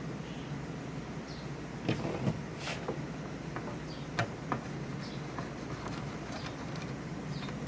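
Several light clicks and knocks from handling an audio power amplifier's rear-panel fuse holder while the fuse is taken out, over a steady low hum.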